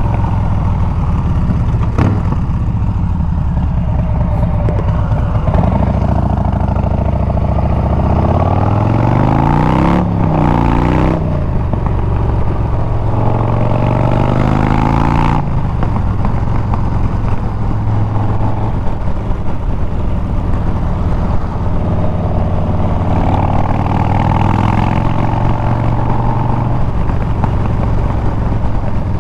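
Harley-Davidson Milwaukee-Eight 114 V-twin running through Bassani straight pipes while riding: the exhaust note rises in pitch as the bike accelerates, breaks about ten seconds in at a gear change, then settles into a steady cruise.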